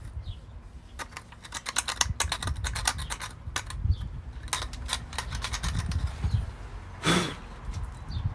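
Two quick runs of sharp, light clicks, then a short rasping burst near the end, over a low rumble.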